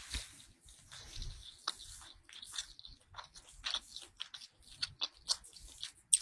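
A person chewing food close to the microphone: a run of small, irregular mouth clicks and crunches, with a sharper click near the end.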